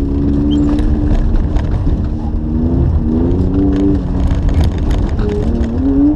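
BMW E36's engine heard from inside the cabin under hard driving. Its pitch rises, dips about three seconds in as it changes gear, and climbs again, over a heavy low rumble from the tyres on the loose track surface, with scattered light ticks.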